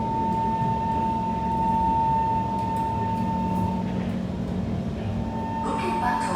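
Kawasaki C151 metro train running, heard from inside the car: a steady rumble with a steady high whine from the traction equipment that fades out about four seconds in and comes back near the end.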